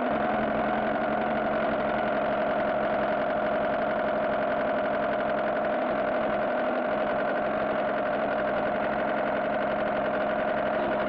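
Car engine sound effect running steadily at a constant pitch, like an idle, with no revving.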